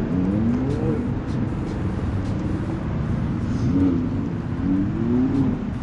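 Car engine revving in rising sweeps, once just after the start and again near the end, over a steady low engine rumble.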